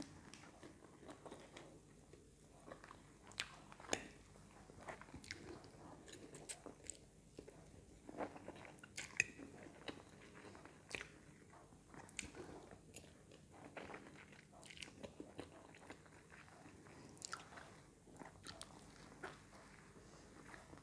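Faint close-up eating sounds: a person chewing a mouthful of stir-fried noodles, with small sharp mouth clicks and smacks at irregular moments.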